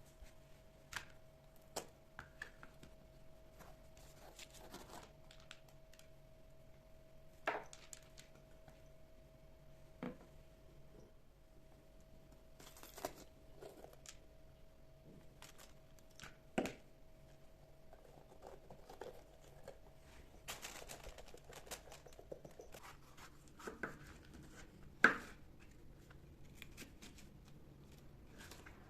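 Kitchen handling sounds: scattered light clicks and knocks of utensils and containers with some rustling, the loudest knock about 25 seconds in. A faint steady hum sits underneath and stops about 22 seconds in.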